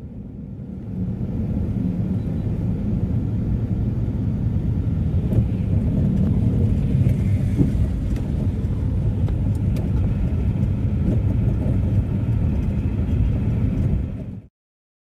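A car in motion: steady low engine and road rumble that cuts off suddenly near the end.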